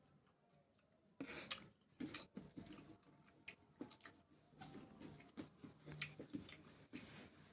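A person chewing raw vegetables: irregular crisp crunches and clicks that start about a second in and continue unevenly.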